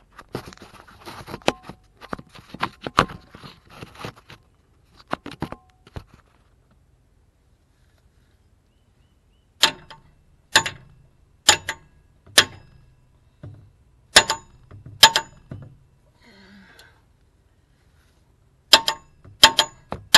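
Hammer blows on metal exhaust hardware, each strike sharp and ringing, coming about one a second in two runs after a few seconds of lighter clattering and knocking.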